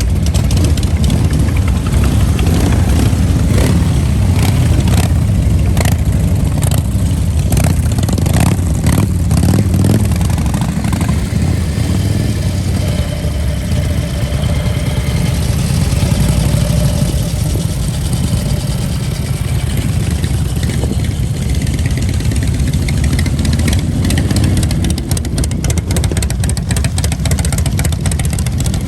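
Motor vehicle engines running and revving, a steady low rumble with scattered sharp crackles in the first third and again near the end.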